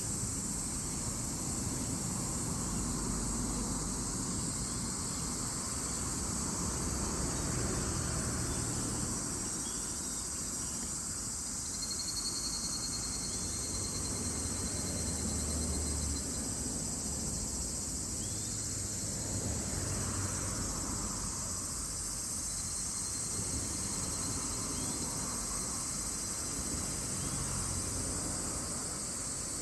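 Chorus of summer insects: a steady high-pitched buzzing, with a lower trilling call coming in twice.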